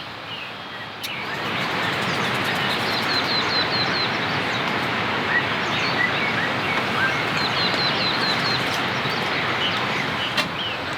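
Heavy rain falling steadily, growing louder about a second in, while a bird calls in short runs of quick repeated chirps over it.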